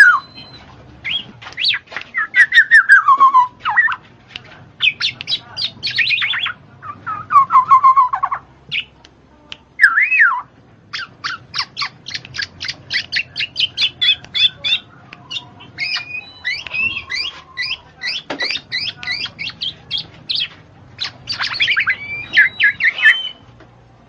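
Birds calling in a busy mix of sliding squawks and chirps, with a fast run of short repeated notes about halfway through.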